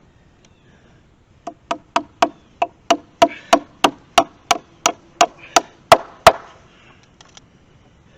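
Rapid hammering during fence repair: about sixteen sharp blows at roughly three a second, growing louder, with the last two the hardest.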